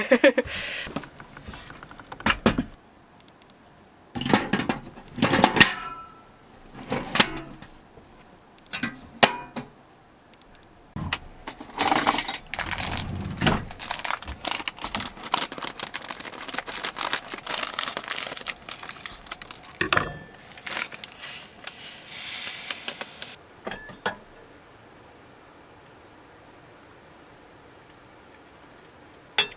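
Cookware and utensils being handled while quinoa is cooked: a run of small clinks, knocks and clatters, with a longer stretch of rustling and clattering midway and a brief hiss near the end.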